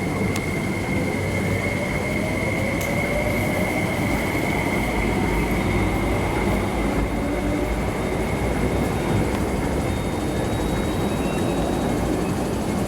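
MTR West Rail Line IKK electric train running, a steady rumble of wheels on rails under a high steady whine that fades about halfway through, with a motor whine rising gently in pitch in the first few seconds.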